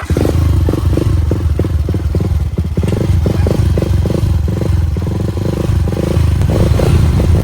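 Motorcycle engine running loudly with a rough, throbbing rumble, cutting in suddenly.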